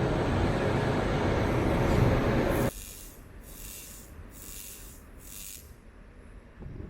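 A loud, steady locomotive running noise that cuts off abruptly under three seconds in, followed by about four short bursts of compressed air hissing, typical of brake air hoses being connected as a WAP7 electric locomotive is coupled to the train.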